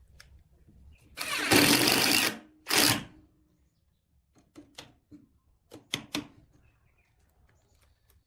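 Woodworking tool noise: a harsh burst of hissing noise lasting about a second, starting about a second in, and a shorter burst just after it. Then a few light clicks and taps.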